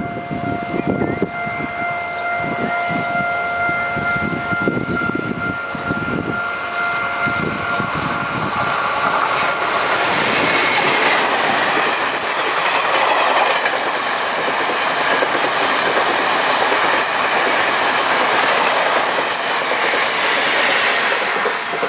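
Taiwan Railways E1000-series push-pull express passing close, its rear electric locomotive's wheels clattering over the rail joints. Over this, the level-crossing warning bell rings with a steady tone and dies away after about seven seconds. A steady rushing noise follows as the train draws away.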